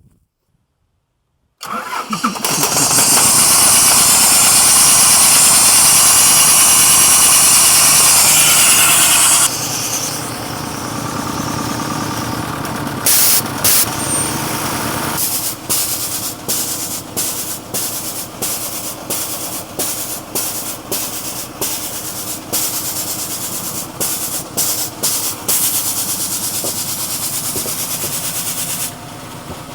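Diesel engine of a home-built air compressor firing up about two seconds in and running very loud and high-pitched for several seconds, then settling to a somewhat lower run broken by repeated, uneven sharp pulses.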